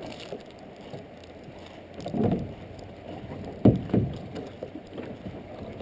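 Water sloshing around a kayak, with a few sudden thumps about two seconds in and again near the middle.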